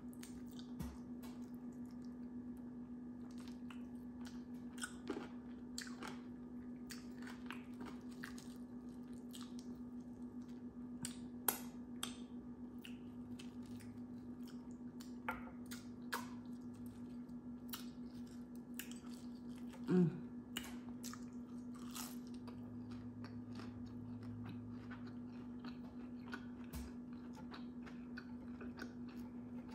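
Close-miked chewing and biting of crispy fried chicken wings: scattered crisp crunches and small clicks over a steady low hum. One brief, louder sound comes about twenty seconds in.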